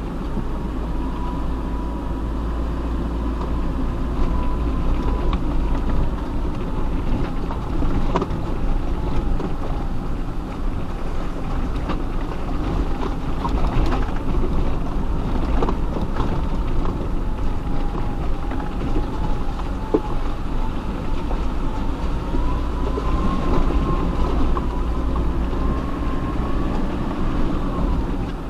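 Off-road 4x4 driving slowly over a rough, rocky track: steady engine and tyre rumble with rattles and occasional sharp knocks from the body and suspension, and a whine that wavers in pitch.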